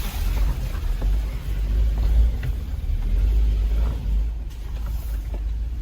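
Jeep Wrangler crawling slowly over an off-road trail: a deep, steady engine and drivetrain rumble with a few faint knocks.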